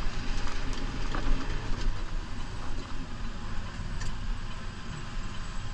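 New Holland Powerstar 75 tractor's diesel engine running while plowing snow, with a few sharp knocks and rattles from the plow.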